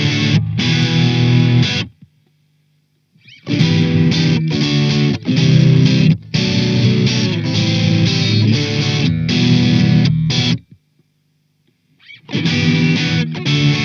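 Soloking MS-11 electric guitar played through distortion in short, choppy riff phrases with abrupt stops. It goes silent twice for about a second and a half between phrases.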